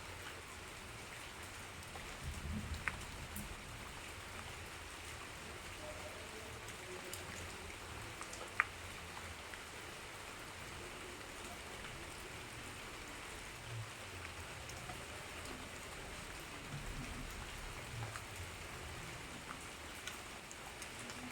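Steady rain falling and pattering on surfaces, with scattered single drips ticking; one sharp drip-like tick, the loudest sound, comes a little under halfway through.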